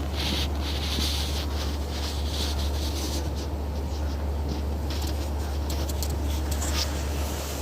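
Vehicle driving on a snow-covered road: a steady low rumble, with patches of higher hiss that come and go from the tyres on the snow.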